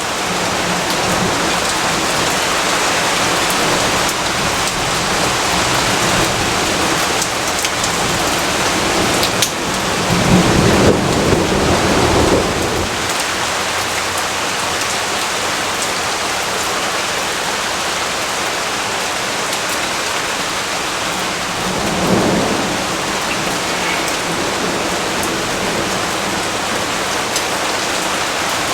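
Steady rainfall with thunder: a rumble of about two seconds rolls in about ten seconds in, and a shorter, fainter one comes a little past twenty seconds.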